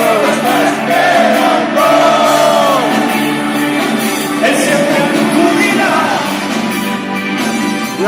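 Live band playing pop-rock music, with a voice singing a melody that glides and bends in pitch and some shouting mixed in.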